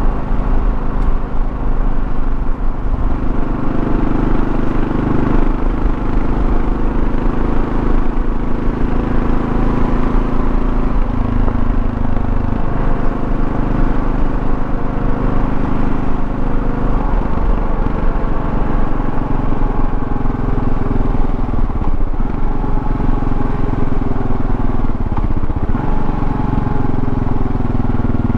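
Kawasaki KLR650 single-cylinder engine running while riding, over steady wind and road rumble. The engine note changes in steps about eleven, thirteen and seventeen seconds in, then rises and falls gently as the speed varies.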